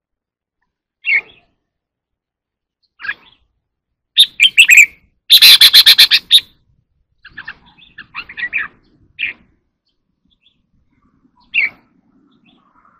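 Red-whiskered bulbul singing: short scattered notes, then a loud, rapid run of repeated notes about four seconds in, followed by a few shorter phrases.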